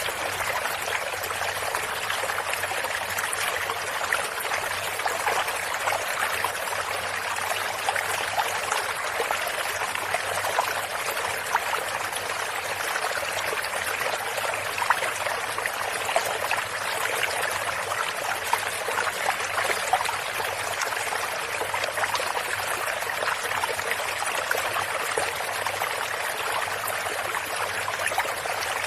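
Shallow stream of water running steadily over stones, a continuous babbling rush with small splashes and trickles.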